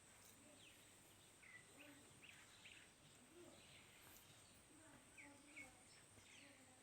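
Faint outdoor ambience: a few short bird chirps, mostly in the middle stretch, over a steady thin high-pitched tone.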